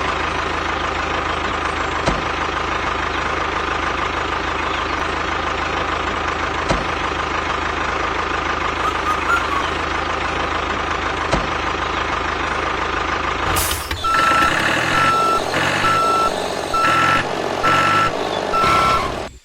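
A steady motor drone for about thirteen seconds, then a sudden switch to a vehicle reversing alarm beeping six times, about once a second, over a lower engine rumble.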